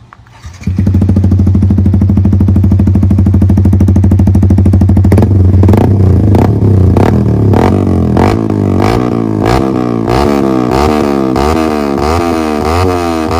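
Yamaha R15 V3's 155 cc single-cylinder engine through an Akrapovic aftermarket exhaust. It comes in suddenly about a second in and idles steadily for a few seconds. From about five seconds it is revved in quick throttle blips, the pitch jumping up and dropping back about twice a second.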